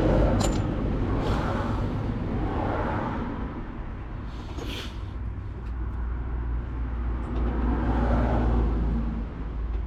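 Road traffic passing: two vehicles swell and fade, about a second in and again near the end, over a steady low rumble, with a few light clicks.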